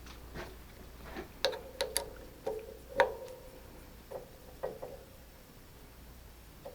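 A string of light metal clicks and taps, each leaving a short ring, as metal tools or machine parts are handled and adjusted; the loudest comes about three seconds in and they stop after about five seconds.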